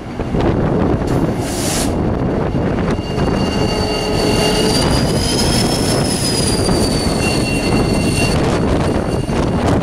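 A freight train of empty steel gondola cars rolling over the rails with a steady rumble. A high wheel squeal rises and falls from about three seconds in until near the end, and there is a brief hiss about a second in.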